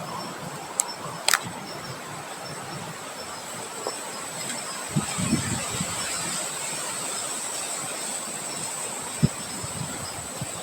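Wind blowing outdoors as a steady rushing noise, with a few low thuds of wind buffeting the microphone about halfway through and near the end. A thin, steady high-pitched whine runs underneath, and two sharp clicks come about a second in.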